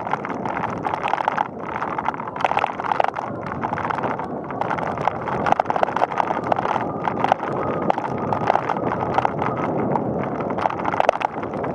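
Bicycle rolling along a paved path: steady road noise with dense, irregular rattling and clicking from the bike.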